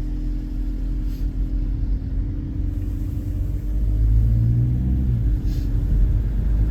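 Car engine running with a steady low road rumble as the car drives slowly on a snow-covered road.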